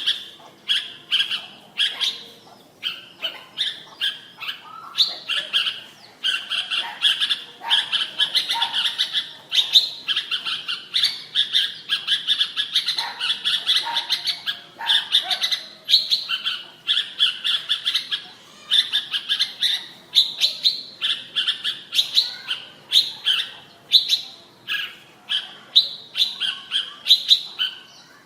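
Red-whiskered bulbul of the Vietnamese song strain (chào mào) singing. Its bright, fast chirping phrases follow each other almost without a break, with only a few short pauses.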